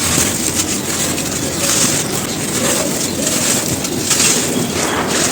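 Dry, brittle cones crumbling: a steady, dense, gritty crunching made of many small cracks.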